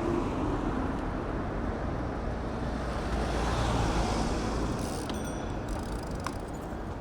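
City road traffic heard from a moving bicycle: a steady low rumble of traffic and road noise that swells around three to four seconds in, with a brief high squeak and a couple of clicks about five seconds in.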